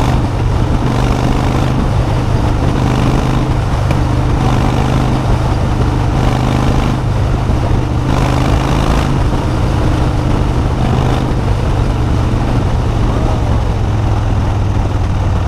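Motorcycle engine running at a steady cruising pitch while riding, with wind noise rushing over the microphone.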